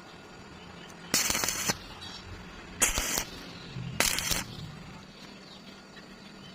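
Three short bursts of crackling arc welding on rebar, each about half a second long and spaced a second or more apart.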